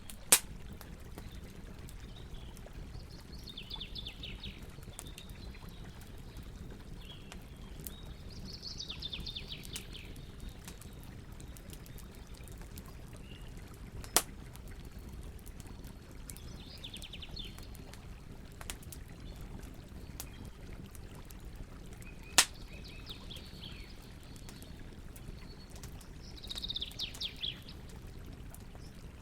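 Campfire burning with a steady low rushing noise and three sharp pops from the wood. A songbird sings short trilled phrases about five times over it.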